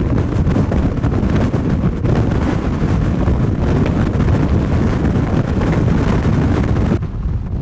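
Strong wind buffeting the microphone: a loud, steady low rumble of wind noise with no other sound above it. It eases suddenly near the end.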